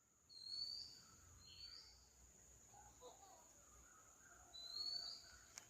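Faint bird calls: three short rising chirps, two close together near the start and one near the end, over a steady faint high-pitched drone.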